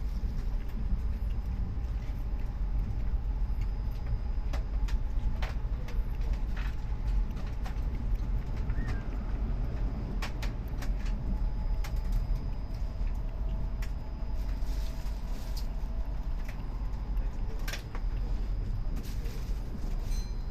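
Cabin sound of a Kintetsu Hinotori limited-express train running through a tunnel: a steady low rumble of wheels and running gear, with a faint whine and scattered clicks and creaks.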